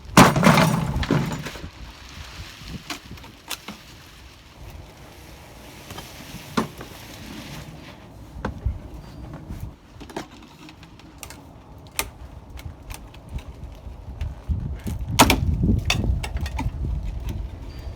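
Scattered knocks, clicks and cracks of old wooden window framing being worked by hand during demolition, with a loud clatter about half a second in and another cluster around fifteen seconds in.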